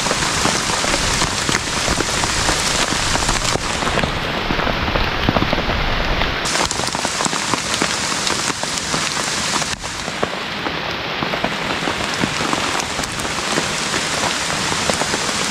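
Heavy rain pouring down steadily: a dense, even hiss with many individual drops hitting.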